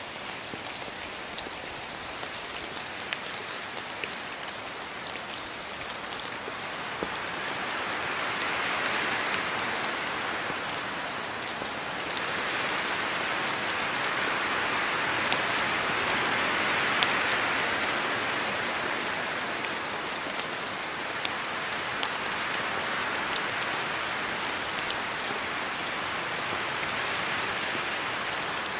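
Steady rain falling, with scattered sharp ticks of single drops hitting close by. It swells heavier twice in the middle, then eases back.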